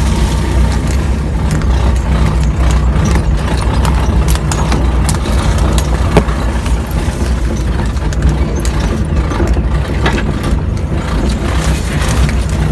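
Pickup truck engine running steadily at low speed, with scattered short knocks and clicks throughout.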